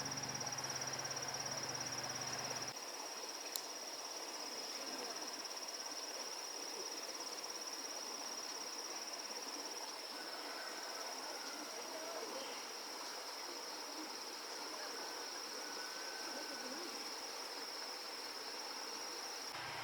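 Steady, high-pitched insect trill running throughout. A low hum under it stops abruptly about three seconds in, and a single sharp click follows shortly after.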